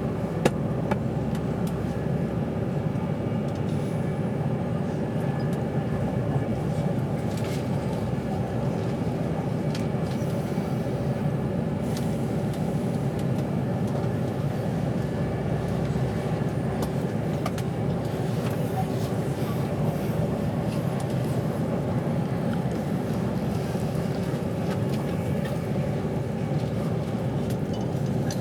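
Inside a passenger carriage of an Avanti West Coast train running at speed: a steady low rumble with faint humming tones and scattered small clicks and rattles.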